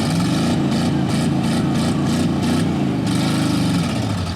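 Demolition derby car's engine revving, its pitch climbing and then falling back over about three seconds.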